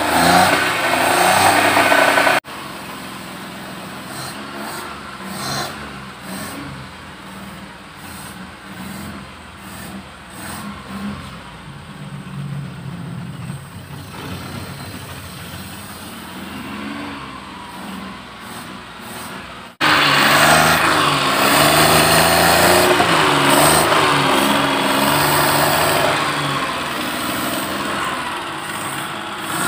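Maruti 800's three-cylinder petrol engine running after its cold start, which the owner calls an engine in good condition. It is heard in three abrupt sections: loud at first, quieter through the middle, then loud again from about two-thirds in, with the engine speed rising and falling.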